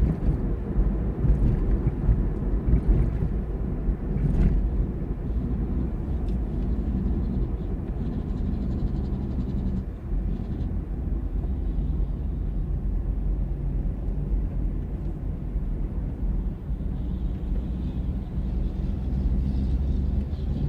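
Steady low rumble of a heavy vehicle's engine and road noise, with a constant engine hum and no sudden events.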